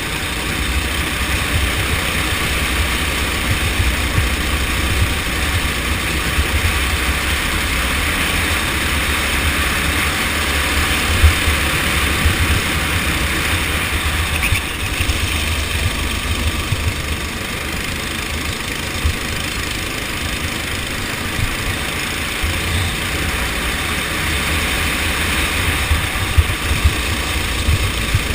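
Go-kart engine running steadily during a race, with strong low rumbling buffeting on the microphone.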